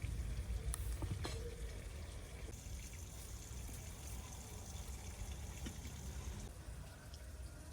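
Water pouring in a steady hiss for about four seconds, over a constant low rumble, with a couple of light clicks about a second in.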